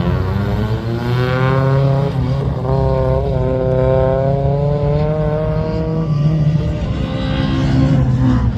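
Rally car engine accelerating, its pitch climbing, with a gear change about two seconds in and a second climb before the revs hold steady. The higher engine note fades about six seconds in, leaving a steady low engine drone.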